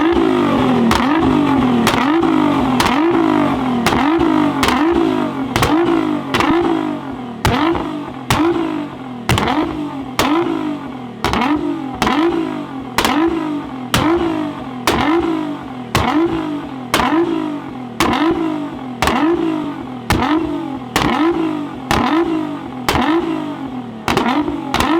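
A car engine through its exhaust, revved in short blips about once a second: each time the pitch climbs quickly and then cuts off sharply, repeating evenly in a steady rhythm.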